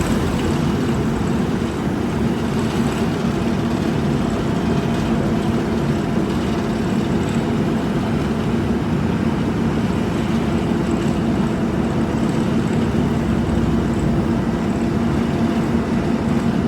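Engine of heavy road-construction machinery running steadily, an even low drone that doesn't rise or fall.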